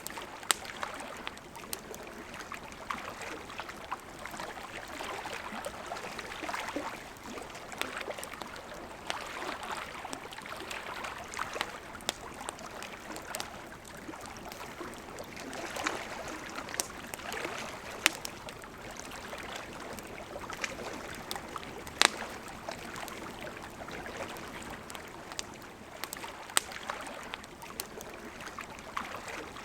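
Campfire crackling with irregular sharp pops over the steady rush of a flowing river. The loudest pops come about 18 and 22 seconds in.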